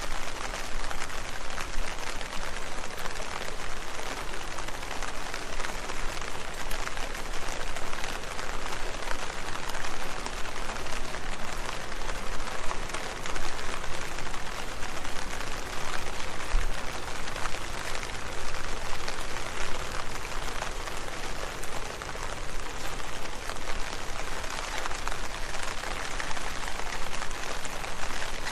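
Steady rain, a dense patter of many small drops falling on leaves.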